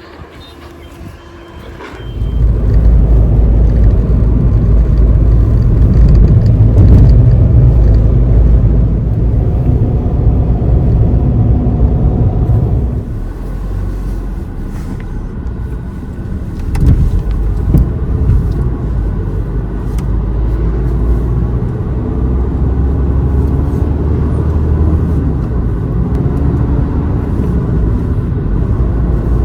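Car driving along a road: a loud, steady low rumble of engine and road noise that comes in about two seconds in, eases briefly around the middle, then picks up again.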